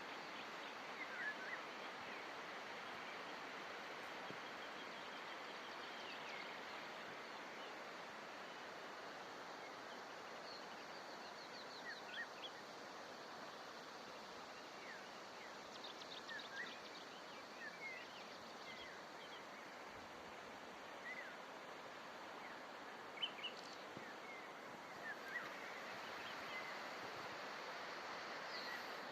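Small birds chirping and trilling now and then, in short scattered calls, over a steady outdoor rushing noise.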